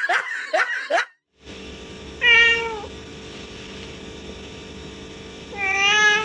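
A cat meowing twice, a few seconds apart, each meow falling in pitch then levelling off, over steady room noise.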